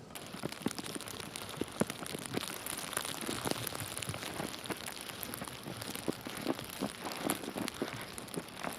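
Falling snow pattering: a steady hiss full of irregular light ticks, which starts suddenly at the beginning.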